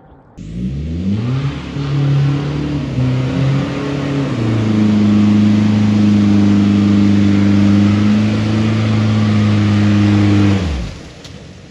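Toyota Prado 150's 3.0-litre four-cylinder turbodiesel through a straight-pipe exhaust, revving up in two steps and holding steady high revs for about six seconds, then dropping back when the throttle is released near the end.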